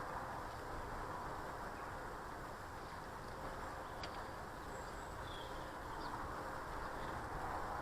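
Steady low background noise of an outdoor garden, with a few faint, short bird chirps about four to five seconds in.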